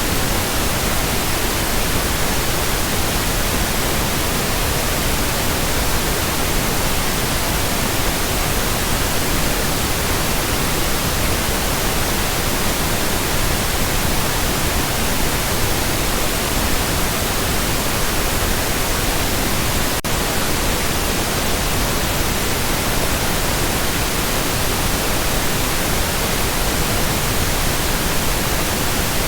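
Steady pink noise: an even, unbroken hiss spread across the whole range from low to high, holding one level throughout.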